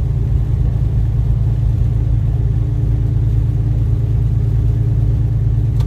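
Steady low drone of a semi-truck's diesel engine and road noise, heard from inside the cab while cruising.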